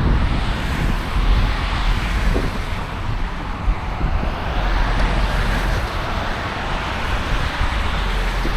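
Outdoor wind buffeting the microphone with a low rumble, and road traffic noise that swells and fades about five seconds in as a vehicle passes.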